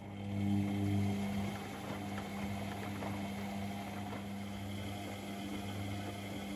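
Privileg Sensation 952 S top-loading washing machine running: its motor starts up with a steady hum and a faint high whine, over a constant low mains hum.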